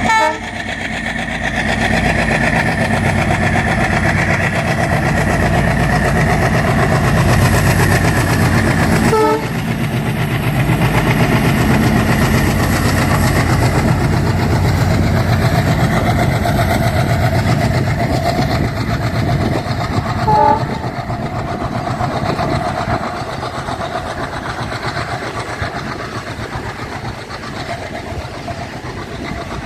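Diesel-hauled double-stack freight train running past on the rails, a steady mix of engine and wheel noise. Short horn toots come right at the start, about nine seconds in, and about twenty seconds in.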